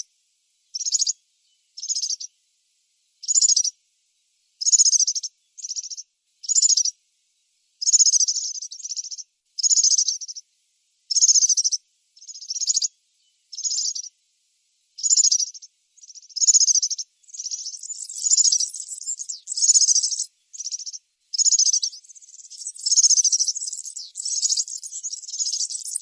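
European serin singing: short, high-pitched phrases repeated about once a second with brief pauses between them, running together into longer, almost unbroken song in the second half.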